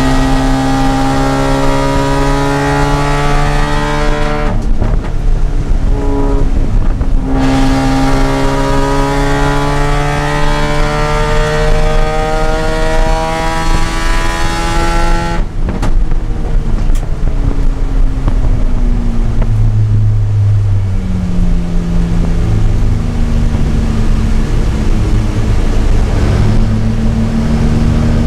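Mazda RX-8's two-rotor rotary engine pulling hard through a gear, with its pitch rising steadily. It breaks off for a few seconds, then climbs again. About halfway through it drops sharply and runs on at lower revs.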